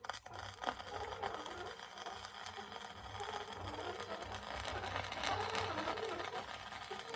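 Flux-core wire-feed welder arc crackling steadily, with a low hum underneath; it starts abruptly and runs without a break.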